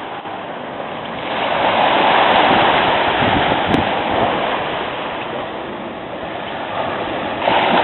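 Ocean surf: a big wave breaking and washing up the beach, its hiss swelling about a second in and easing off, then rising again near the end as the next wave comes in.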